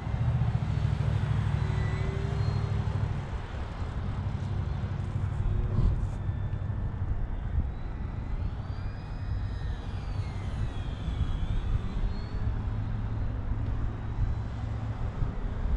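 The motor and propeller of a radio-controlled model Cessna 150 whine faintly in flight, the pitch rising and falling between about 8 and 12 seconds as the plane circles. Wind rumbles on the microphone throughout.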